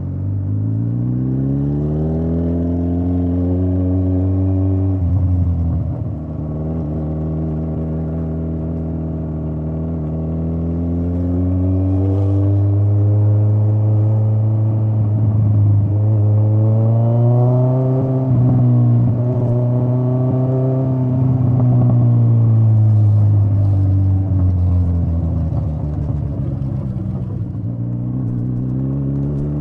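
Straight-piped Kawasaki Z900 inline-four exhaust under way, its pitch rising as it accelerates and dropping sharply about five seconds in at a shift or throttle-off. It holds steady, climbs again through the middle, eases off in the last few seconds and begins rising once more at the end.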